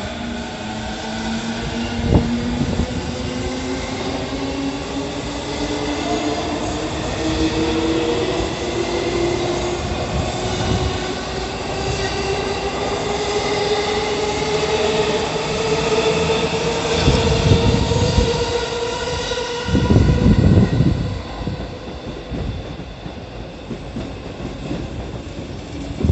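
E217 series electric train pulling away, its traction motor and inverter whine rising steadily in pitch as it accelerates. Wheel knocks and rumble run underneath, loudest about 20 seconds in, and then the sound drops away.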